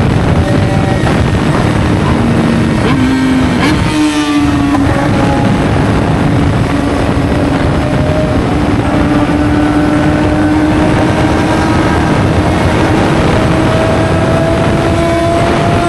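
Sport-bike engine pulling steadily under heavy wind rush, recorded on the rider's own motorcycle. The engine tone climbs in the first few seconds, dips briefly about four seconds in, then holds nearly steady and slowly rises.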